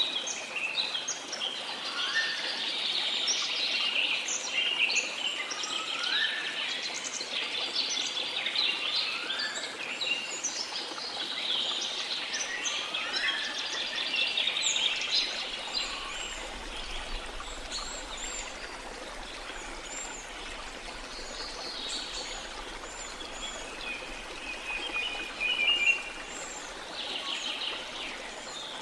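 Many small birds chirping and singing busily over a steady wash of sea water. Through the first half, a short rising call repeats about every two seconds.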